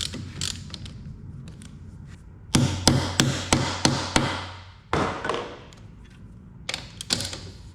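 Hand tools working on the hydraulic tank lid bolts: a run of about six sharp knocks, about three a second, then a short scrape and a couple of clicks near the end.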